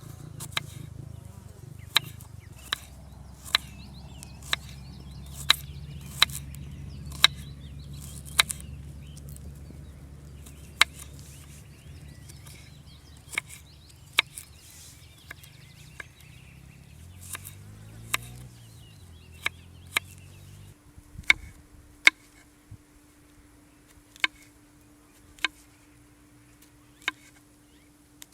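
A knife chopping in single sharp strikes, roughly one a second, with a few longer pauses midway.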